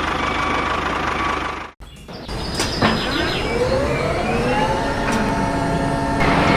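A motor running: steady noise, then after a brief break a pitched whine rises over about a second and a half and holds steady.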